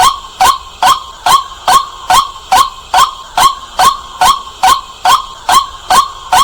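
White-breasted waterhen calling, a loud 'kwak' repeated evenly about twice a second.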